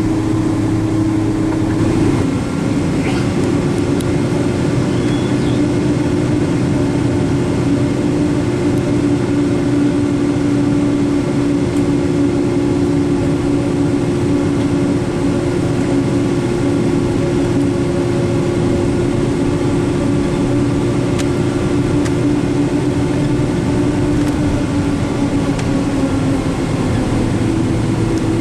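Steady engine and air-conditioning drone in the cabin of a Boeing 777-200, with a constant low hum and a humming tone that dips slightly in pitch about two seconds in and rises back near the end.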